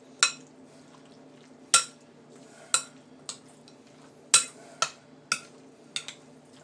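Metal spoon clinking against a bowl while mayonnaise is stirred into a pea salad, about eight sharp ringing clinks at uneven intervals.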